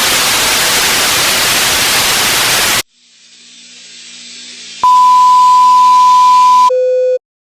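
Loud television static hiss that cuts off suddenly, followed by faint hiss and then a long steady high beep, dropping to a short lower beep before everything goes silent, like a broadcast interruption and test tone.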